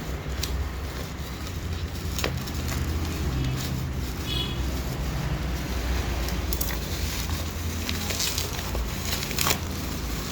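Smartphone box and packaging being handled and opened: a few scattered clicks and scrapes over a steady low rumble.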